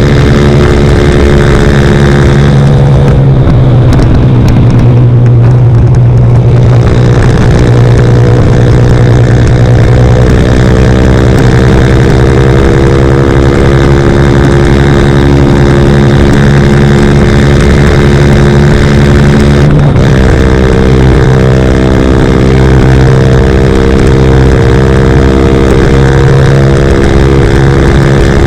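CFMoto Papio XO-1 minibike's single-cylinder engine running loud through a Yoshimura RS-9 aftermarket exhaust, holding a steady note under throttle. The note thins out for a few seconds early on and breaks off briefly about twenty seconds in, then carries on.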